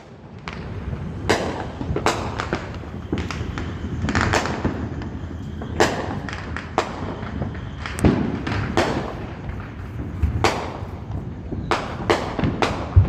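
Fireworks going off: about a dozen bangs at irregular intervals, some sharp cracks and some deeper booms, over a continuous background rumble.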